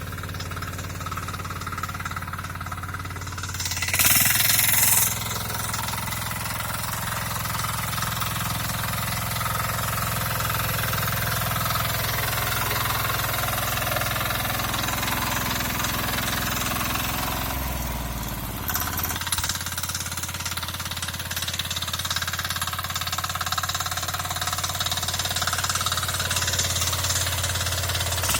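Small engine of a KisanKraft KK-IC-400E cultivator running steadily while ploughing, with a loud rushing noise for about a second some four seconds in and a change in the engine's pitch around eighteen seconds in.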